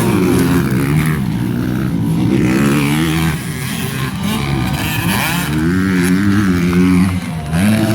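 Motocross dirt bike engines racing on the track, their pitch rising and falling over and over as the riders throttle up and back off.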